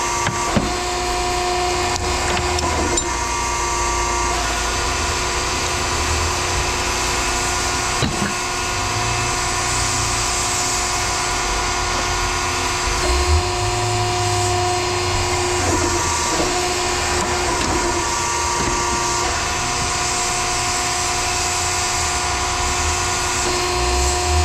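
Steady machinery running with a constant whine of several pitches over a low rumble, and a few faint knocks.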